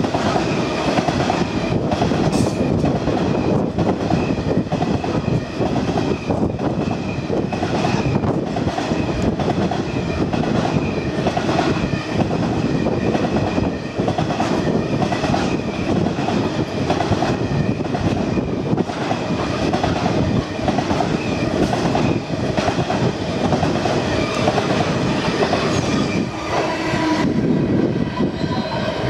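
Steel wheels of a grain train's hopper wagons rolling past close by: a steady rumble with clacking over the rail joints and a faint, steady wheel squeal above it.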